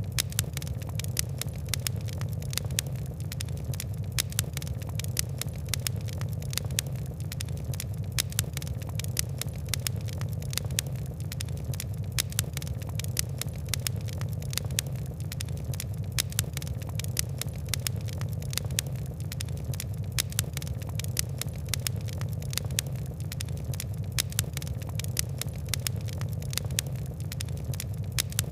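Wood and coal fire crackling: dense, irregular sharp crackles and pops over a steady low rumble.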